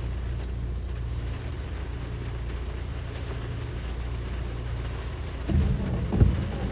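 A car driving in rain, with steady low engine and tyre noise. About five and a half seconds in, a louder low rumble with a few thumps comes in.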